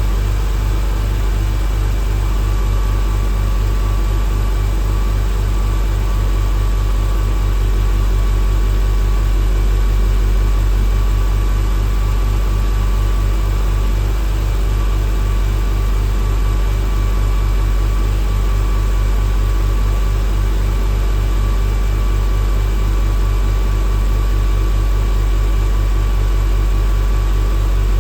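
1999 Porsche 911 Carrera's water-cooled 3.4-litre flat-six idling steadily during warm-up after a cold start.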